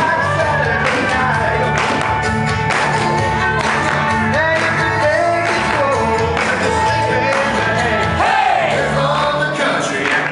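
Upbeat country song performed live: a male voice singing over a band or backing track with a steady beat and bass line.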